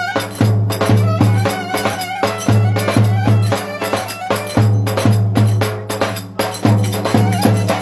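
Traditional folk dance music played by a band without singing. A steady pulsing bass beat and percussion run under a wavering melody line.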